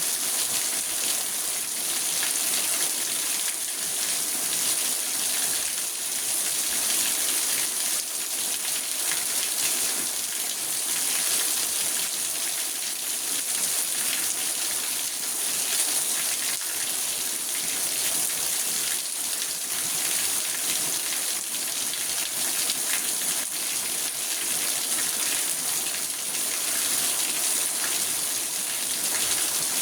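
Steady rain falling on a car's roof and windows, heard from inside the car: an even hiss with fine patter of individual drops.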